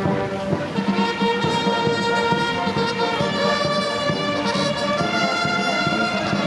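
Military band of brass and bugles playing sustained chords, the harmony changing about a second in and again near five seconds.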